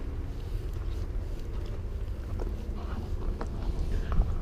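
Footsteps: a few faint scattered steps over a low steady rumble.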